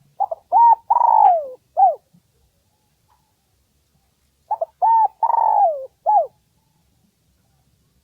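Spotted dove cooing: two call phrases about three seconds apart, each a few short coos, a longer coo that falls in pitch, and a short closing coo. A recorded lure call used to draw wild spotted doves.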